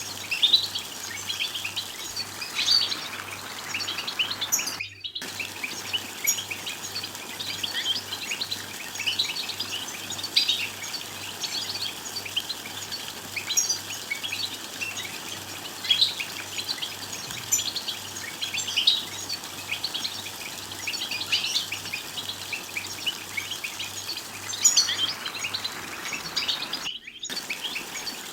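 European goldfinches chattering and twittering: quick runs of short, bright chirps follow one another without pause, the 'btbta' chatter used to stir male goldfinches into song. The sound breaks off for a moment twice, about five seconds in and near the end.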